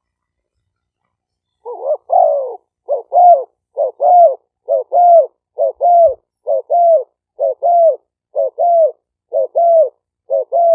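Spotted dove cooing in a steady series of two-part calls, a short note then a longer one, about one a second, starting after a pause. This is a decoy bird's call, with background noise cut out so there is dead silence between the notes.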